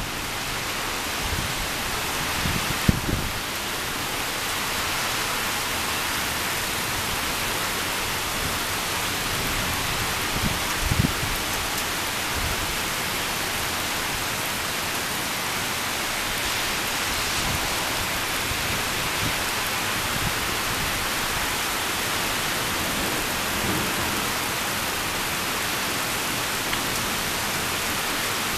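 Heavy thunderstorm rain pouring steadily as a dense, even hiss, with brief low thumps about three and about eleven seconds in.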